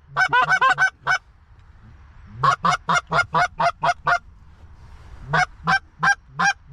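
Goose honking: three quick runs of short clucking honks, about five a second, with pauses of a second or so between the runs.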